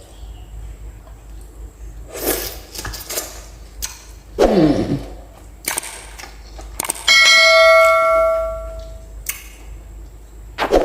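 A bell-like chime rings once about seven seconds in, starting sharply and fading over about two seconds. It comes among a few sharp clicks and two short falling hums.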